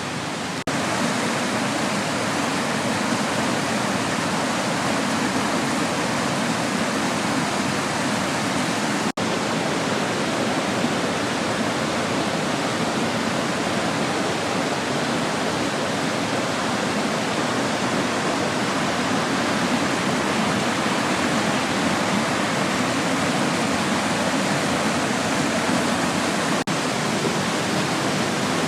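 Waterfall rushing steadily, an even roar of falling water with a momentary dip about nine seconds in.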